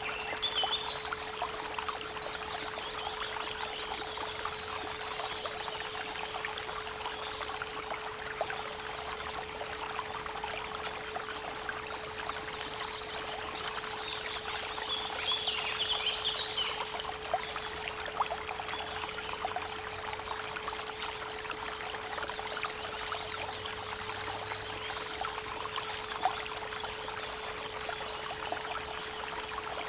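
Creek water running and babbling, with birds chirping now and then, under a steady 432 Hz pure tone.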